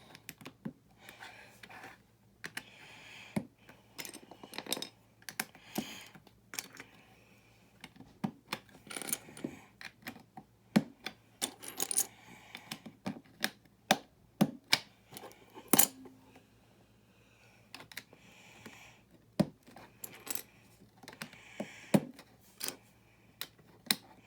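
Small plastic building-brick pieces clicking and clattering as they are handled and pressed onto a plate, with irregular sharp clicks and a few louder snaps.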